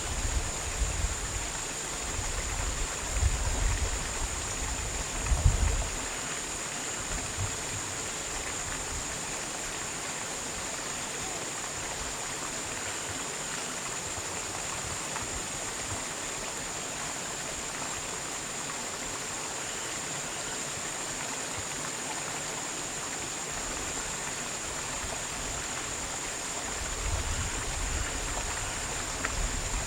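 Steady rushing noise like running water, with a thin high steady hiss on top. Low buffeting rumbles, like wind on the microphone, come during the first six seconds and again near the end.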